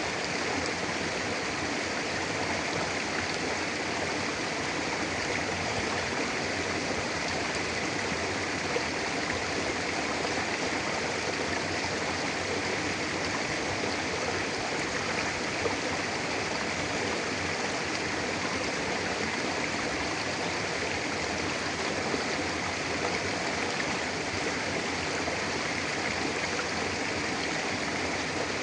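Mountain river flowing steadily over rocks: a constant rush of water.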